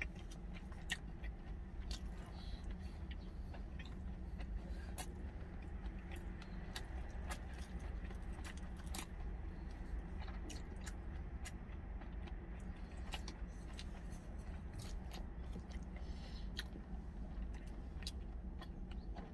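Close-up chewing with many small, irregular clicks of wooden chopsticks against a stainless steel cup, over a steady low hum.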